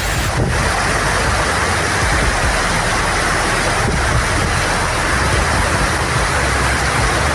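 Loud, steady rushing of storm water, a dense, even noise with an abrupt change about a third of a second in.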